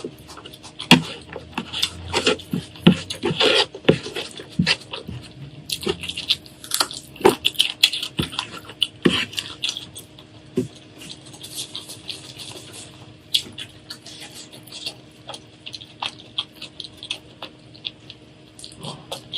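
Close-miked eating sounds: irregular wet smacking, chewing and licking clicks, some louder than others.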